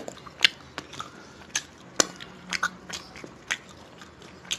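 Close-up eating sounds: wet chewing and lip-smacking of chicken curry, heard as short, sharp mouth clicks spaced irregularly about two a second.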